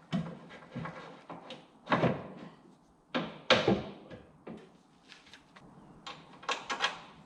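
A series of separate knocks and clunks from hand work on the machine, the loudest a little past the middle, with a quick run of small clicks near the end.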